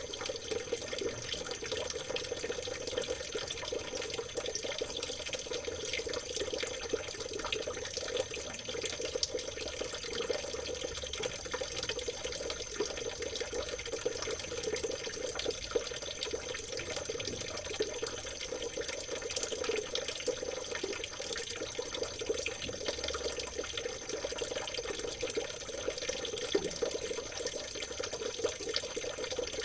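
Water in a small stream trickling and babbling steadily, with a thin, steady high-pitched tone above it.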